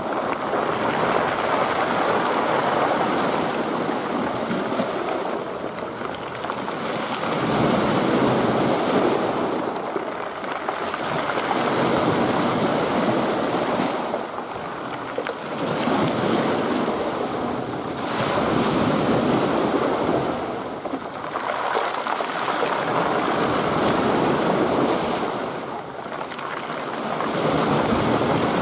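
Ocean surf: waves breaking and washing up the shore, swelling and easing again about every four seconds.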